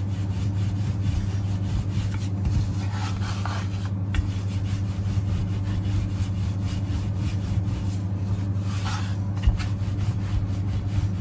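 Pizza dough being pressed and worked by hand on a floured wooden board, a continuous scratchy rubbing, over a steady low hum.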